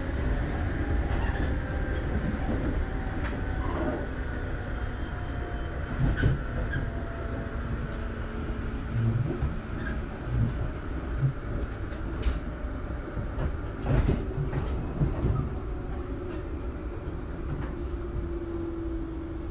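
JR Shikoku 121 series electric multiple unit running, heard from inside the car: a steady low rumble of wheels on rail with a faint motor and gear whine that slowly falls in pitch. A few sharp clicks and knocks, louder around the middle.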